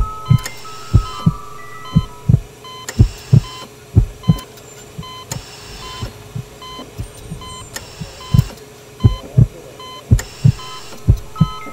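Heartbeat sound effect: low double thumps about once a second over a steady hum, with short electronic beeps at several pitches. The thumps grow softer for a few seconds midway, then return.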